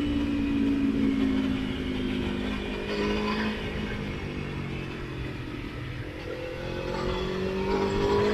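Motorcycle engine on the road, its pitch falling as it slows over the first few seconds, then rising again as it accelerates near the end, with wind rumble on the microphone.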